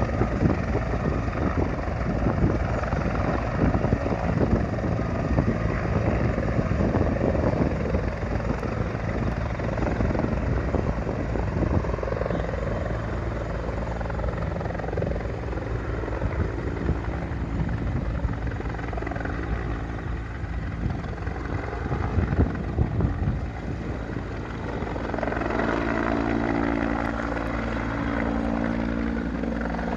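Rescue helicopter running, its rotor beating with a fast steady pulse over the turbine engine's sound. About 25 s in, a steadier humming tone comes up in the mix.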